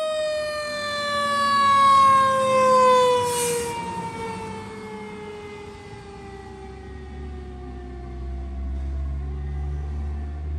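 A fire engine's Federal Q2B mechanical siren winding down, its wail falling steadily in pitch. There is a short hiss about three and a half seconds in, and the truck's low engine rumble grows near the end.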